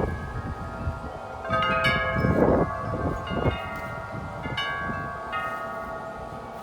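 Several large tuned-tube wind chimes ringing in gusty wind: clusters of strikes, the biggest about a second and a half in, with many tones overlapping and ringing on as they fade. A gust rumbles on the microphone about two seconds in.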